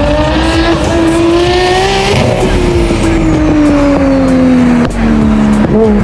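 A car being driven hard, with tyres squealing in a long slide. The squeal's pitch rises over the first couple of seconds, then sinks slowly, and there is a sharp crack about five seconds in.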